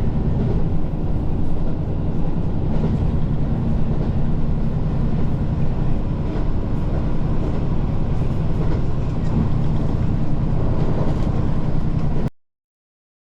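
Train running along the track: a steady low drone with rail noise, cutting off abruptly near the end.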